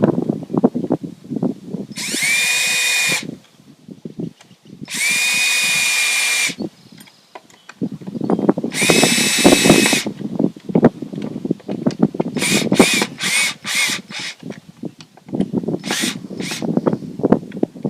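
Cordless drill driving screws while a gate latch is fitted: three steady runs of one to two seconds each, then a string of short trigger bursts near the end. Knocking and clattering of handling fill the gaps between.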